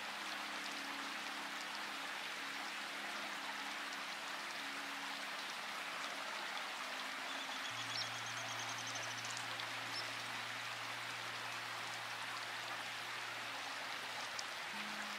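Steady rainfall, an even hiss of falling drops, with soft low held tones underneath that change pitch about halfway through. A short run of high chirps sounds about eight seconds in.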